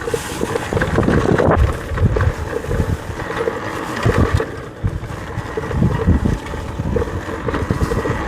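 Wind buffeting the microphone in irregular gusts during a ride on an electric dirt bike through brush, with a few short knocks.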